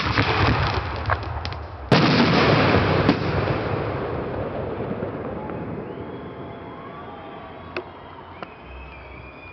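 Aerial firework shells bursting in the finale volley: dense crackling and bangs, a loud burst about two seconds in, then the crackle and rumble die away over several seconds.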